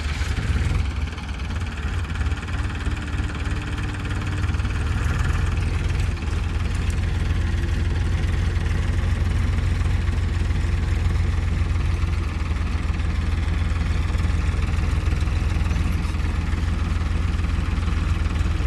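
Tractor diesel engine running with a steady deep rumble, growing a little louder about four seconds in.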